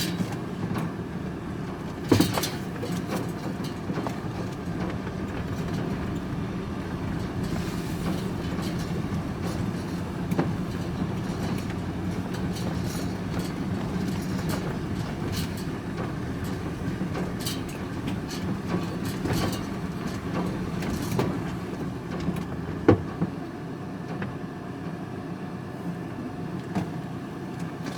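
Van engine running and rumbling, heard from inside the cab, with a few sharp knocks and light rattles from the load or body.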